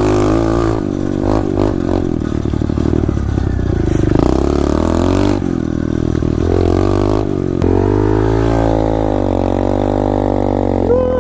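SSR 125 pit bike's single-cylinder four-stroke engine revving as it is ridden, its pitch rising and falling with the throttle and dipping then climbing again near the end.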